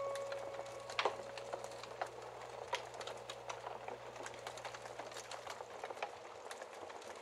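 Wood fire crackling in a fireplace: a steady scatter of small snaps and pops, with a sharper pop about a second in. A held musical note fades out over the first two seconds.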